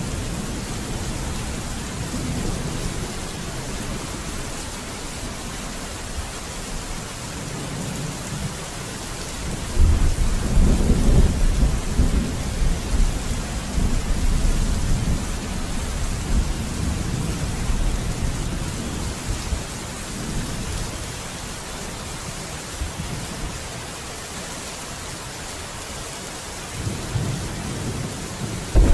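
Steady rain with rolling thunder. A loud thunderclap about ten seconds in rumbles on for several seconds and dies away, and another rumble begins to build near the end.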